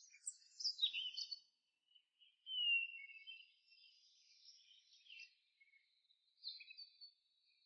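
Faint birdsong: several high chirps and short whistled notes, with a clearer gliding whistle about two and a half seconds in.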